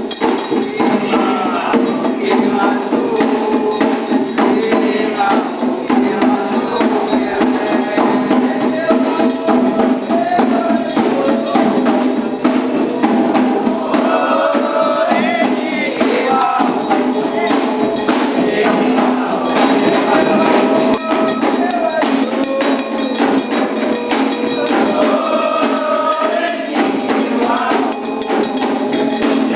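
Candomblé ceremonial music: steady percussion with voices singing.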